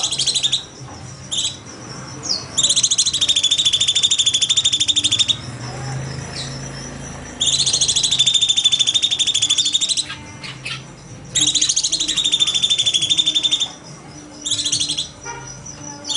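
Cucak cungkok bird giving harsh, rapidly pulsed chattering bursts, each lasting two to three seconds with short pauses between, after a few short single calls at the start.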